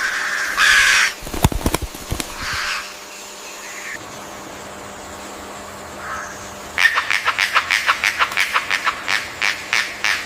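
Birds calling: a few harsh calls in the first three seconds, then a rapid run of short clipped notes, about eight a second, from about seven seconds in.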